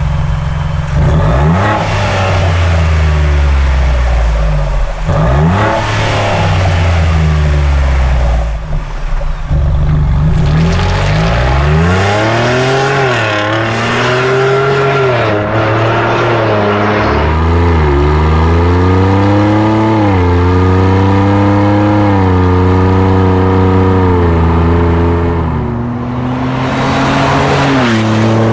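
A Ford Bronco's 2.7L twin-turbo EcoBoost V6 running through a Borla stainless exhaust. It is revved quickly a few times, then climbs in pitch and drops back several times as it pulls through the gears, and settles to a steady drone.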